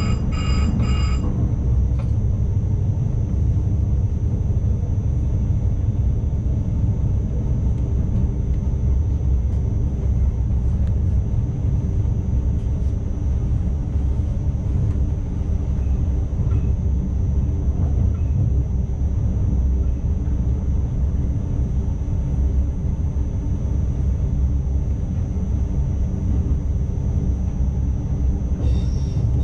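Steady low rumble of an ICMm electric multiple unit running along the track, heard from the driver's cab, with a faint constant high whine. Three short electronic beeps sound right at the start.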